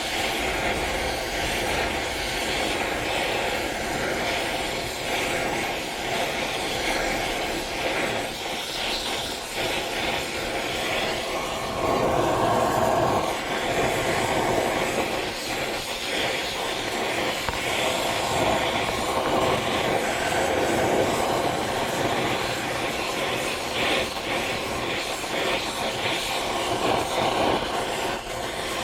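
Gas torch burning with a steady roar, heating small steel parts to red heat for case hardening.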